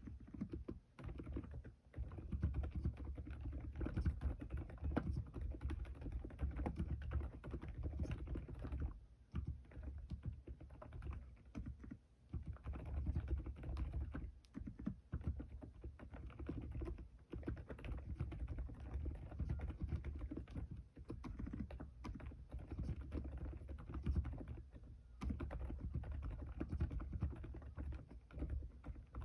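Fast, continuous typing on an Aula F108 mechanical keyboard with Keychron K Pro silent banana switches: muted, dampened keystrokes in a dense stream, broken by a few brief pauses.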